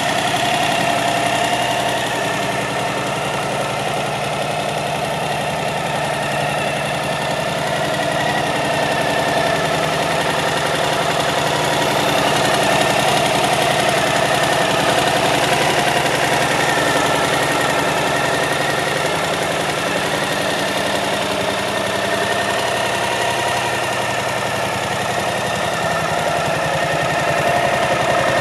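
Suzuki V-Strom 1050's 1037 cc V-twin engine idling steadily.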